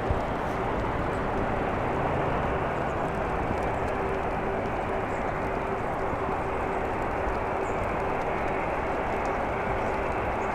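Jet aircraft engines running with a steady rumble and a constant hum tone, the sound of airliners at an airport, with faint bird chirps.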